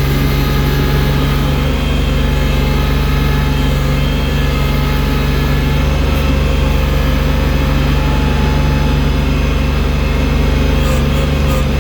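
Engine of a machine working a front loader bucket, running steadily under load while moving deep snow.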